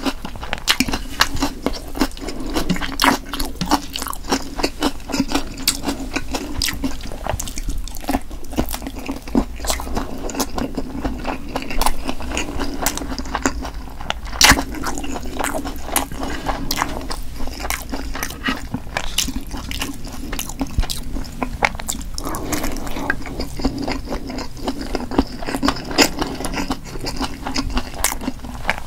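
Close-miked chewing and biting of sundae, Korean blood sausage: many small wet mouth clicks, with one louder click about halfway through, over a steady low hum.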